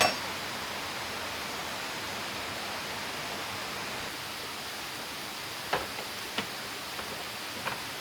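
Steady rushing hiss of a waterfall, with a sharp click at the start and a few short light knocks in the second half.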